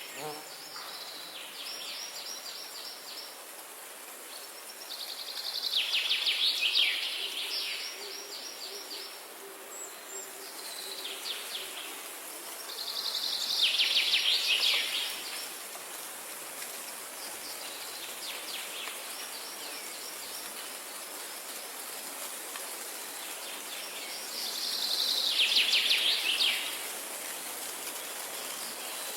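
A songbird singing short, fast trilled phrases, each about one to two seconds long and repeated every several seconds, some louder and some fainter, over a steady background hiss.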